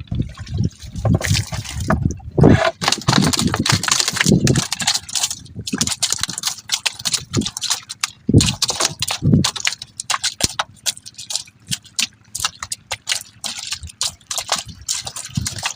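Water splashing and sloshing in irregular bursts, with heavier low splashes among lighter drips and trickles.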